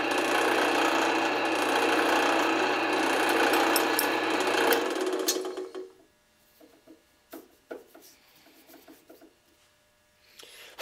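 Drill press running with a steel screw chucked in it while its head is turned down, a steady scraping and rubbing of metal against the spinning head over the motor's hum. About five seconds in the scraping stops and the press winds down, followed by a few light clicks and knocks and a sharp click at the end.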